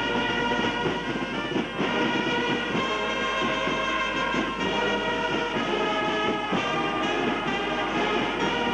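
Brass band music: several brass instruments playing held notes together, changing every second or so.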